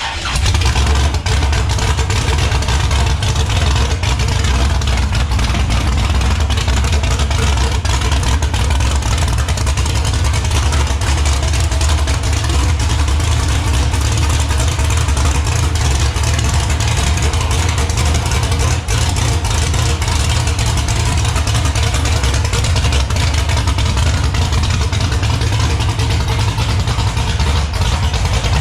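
A vehicle driving at a steady pace: a constant low engine and road rumble under a loud, even rushing noise.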